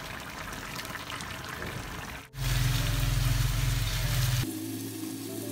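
Chicken feet simmering in a thick sauce in a frying pan, giving a steady bubbling and sizzling hiss. After an abrupt cut about two seconds in, a loud, steady low drone takes over for about two seconds.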